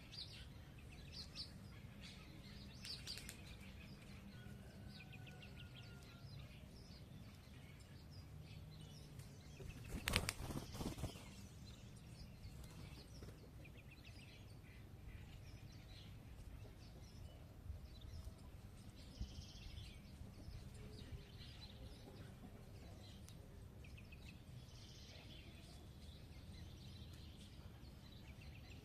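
Small birds chirping now and then while feeding, over a steady low background rumble, with a brief loud rustle about ten seconds in.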